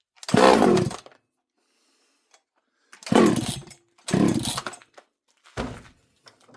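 Two-stroke chainsaw being pull-started: four short bursts as the recoil starter rope is yanked, the engine turning over without catching and running.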